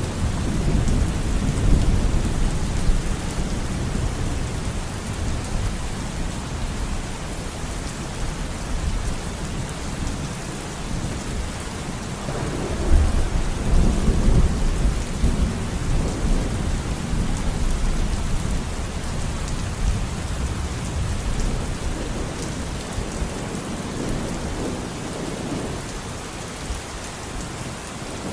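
Steady rain with rolling thunder: low rumbles fade out early on, a fresh roll of thunder builds about halfway through, and a lighter one follows near the end.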